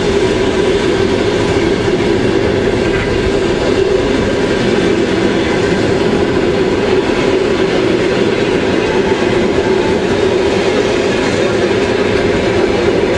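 Railway train rolling along the track: a steady, loud rumble of wheels on rails.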